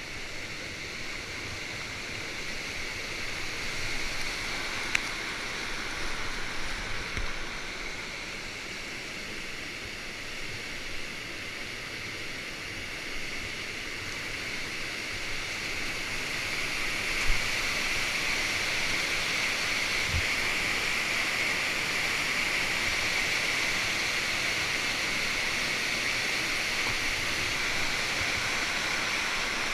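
Water rushing steadily over a river weir, growing louder about halfway through, with a couple of faint knocks.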